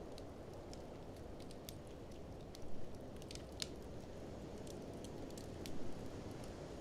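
Wood fire crackling with scattered sharp snaps and a few louder pops, over a steady low rush of blizzard wind.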